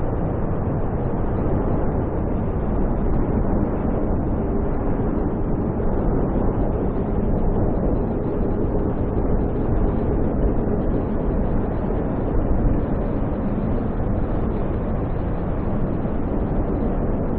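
Strong wind in a snowstorm, a steady low rumbling rush that swells and eases slightly without pause.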